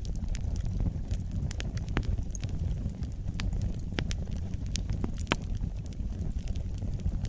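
Fire burning in a fireplace: a steady low rumble of flames with scattered sharp crackles and pops, a few louder snaps among them.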